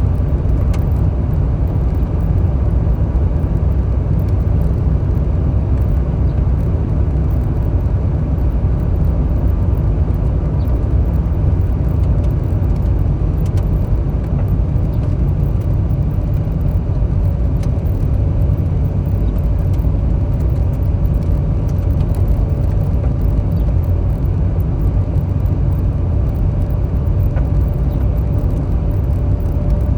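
Steady road and tyre noise of a car being driven, heard from inside the cabin, mostly a low rumble. A faint steady hum joins about halfway through.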